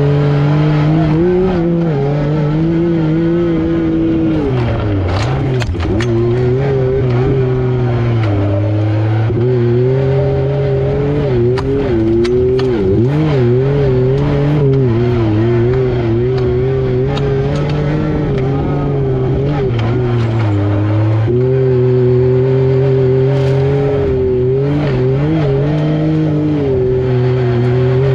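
The three-cylinder engine of a Yamaha YXZ1000R SS side-by-side running under load, its pitch rising and falling with the throttle. The pitch drops sharply about four, eight and twenty seconds in, then climbs again.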